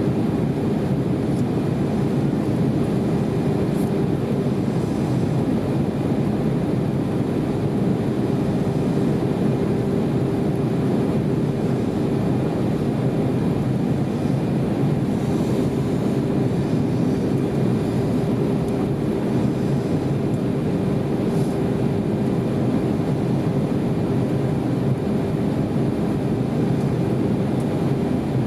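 Steady cabin noise inside an Airbus A320 in flight: a constant rush of airflow and engine drone, with a steady hum running through it.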